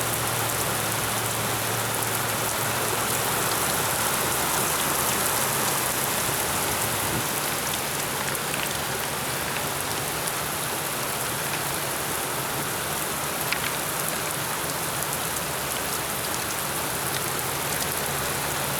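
Heavy rain pouring down steadily, a constant hiss of rain on surfaces.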